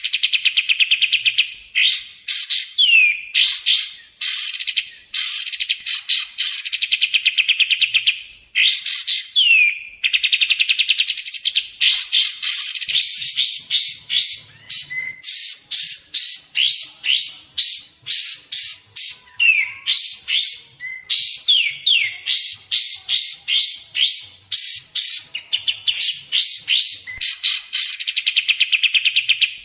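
Kapas tembak bird song playing continuously: long, very fast trills and chattering runs of repeated notes with short gaps, broken now and then by a single downslurred whistle.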